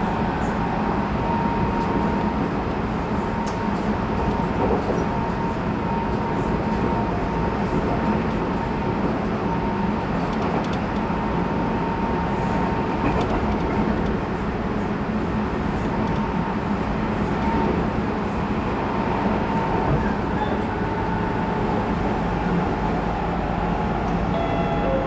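Interior running sound of a Tobu 20400 series electric train's motor car at steady speed: wheel and rail noise with a steady hum from the motors and gears.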